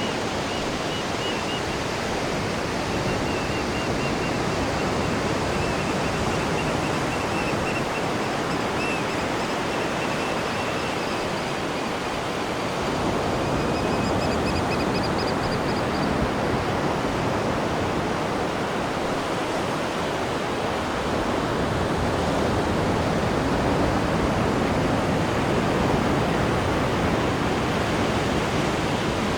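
Sea water churning in a cruise ship's wake, heard from the stern: a steady, even rushing. Faint high, thin whistling tones come and go in the first half.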